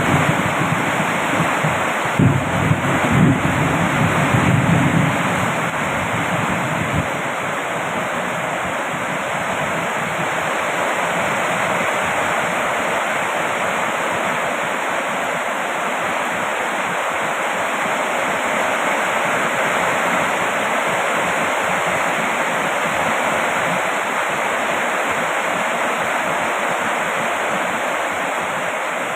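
Heavy rain falling in a steady, even hiss. A low rumble runs under it for the first several seconds and stops about seven seconds in.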